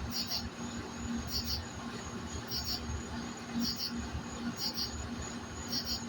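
Insects chirping in a steady rhythm: short double chirps about once a second over a continuous high-pitched insect whine.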